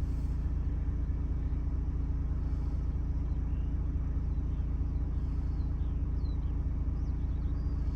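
Ford Transit's 2.0-litre Duratorq diesel engine idling, a steady low rumble; the engine runs fine with nothing wrong.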